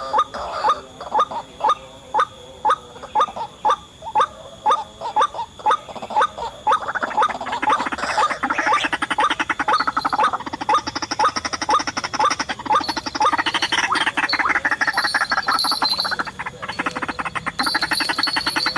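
White-breasted waterhen calling: a monotonous series of short, rising croaking calls, about two to three a second. About a third of the way in, the calls thicken into a denser, overlapping chatter, and a higher chatter joins partway through.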